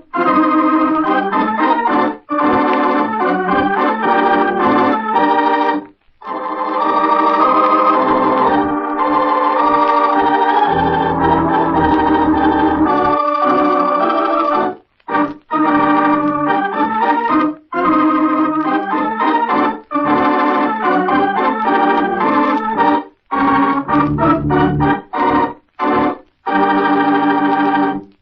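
Organ playing the radio mystery's opening theme in phrases, each broken by a brief pause.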